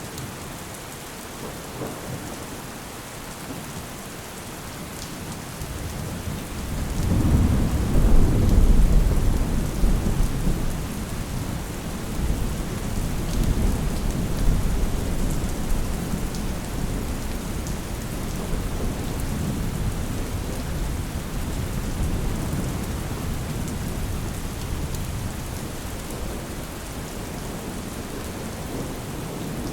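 Steady rain falling, with a deep roll of thunder that builds about six seconds in, is loudest around eight to nine seconds, then rumbles on and slowly dies away.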